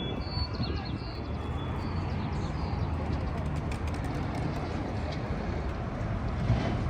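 Outdoor street ambience in heavy wind and rain: a steady, uneven low rumble under an even hiss. A few short high chirps come near the start, and scattered light ticks come about halfway through.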